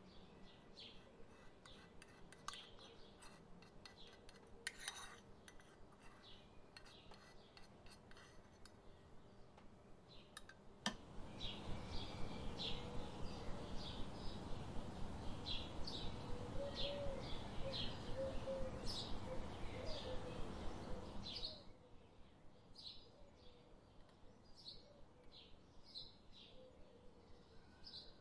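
A bird chirping over and over, short high chirps about two a second. From about eleven seconds in to about twenty-one seconds, a louder steady hiss lies under the chirps and then stops suddenly.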